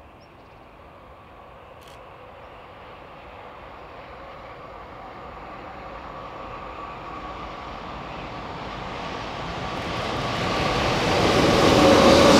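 A train approaching, growing steadily louder with a steady whine, and reaching its loudest near the end as it comes close.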